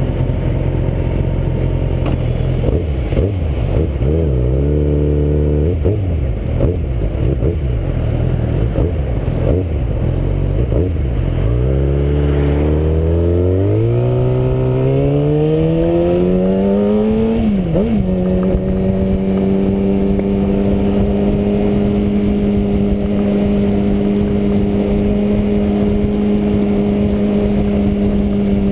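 Inline-four engine of a 2009 Kawasaki Ninja ZX-6R under way, with wind rush: it runs at low revs with small changes for the first dozen seconds, then its pitch climbs steadily for about six seconds, dips briefly, and holds steady at a higher pitch for the rest.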